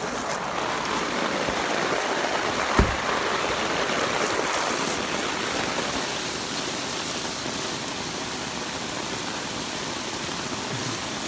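Heavy rain falling steadily, a dense hiss, with a single thump a little under three seconds in.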